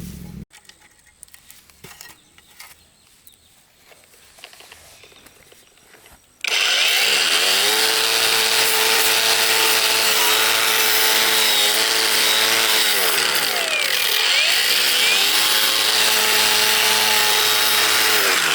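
A small electric power tool motor spins up suddenly, runs at a steady high speed with a hissing, grinding edge, sags in pitch briefly partway through as if loaded, recovers, then stops near the end. Before it starts there are only a few faint clinks.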